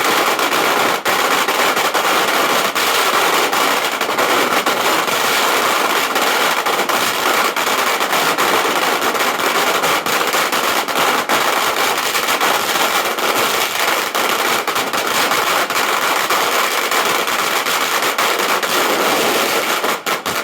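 A long string of firecrackers going off in a dense, continuous crackle of rapid bangs that cuts off suddenly near the end.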